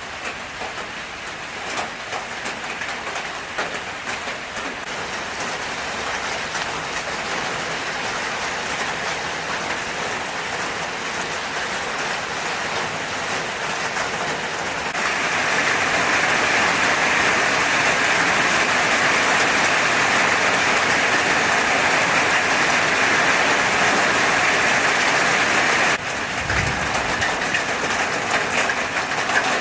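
Hot oil sizzling steadily as food fries. The sizzle grows louder, turns abruptly louder and brighter about halfway through, then drops back suddenly near the end with a brief low thud.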